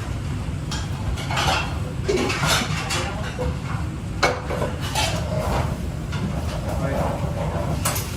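Kitchen utensils and cookware clinking and knocking: a series of short, sharp clinks, the loudest a little past four seconds in, over a steady low hum.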